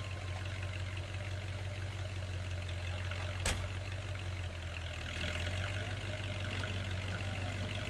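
Heavy vehicle engine running steadily with a low hum, with a single sharp knock about three and a half seconds in.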